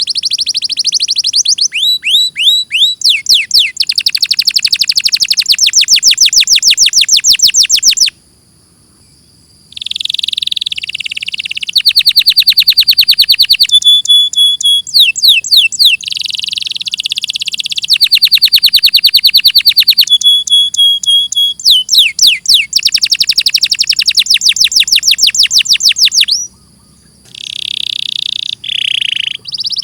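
Domestic canary singing: long rapid trills of repeated notes and quick downward-sweeping phrases, with a few held whistled tones, broken by two short pauses.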